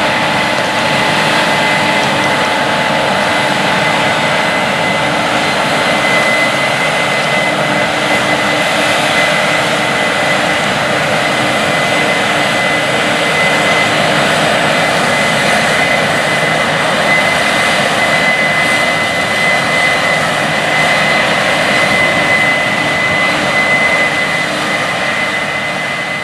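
Heavy farm machinery running steadily at working speed, a continuous machine noise with a steady high-pitched whine over it.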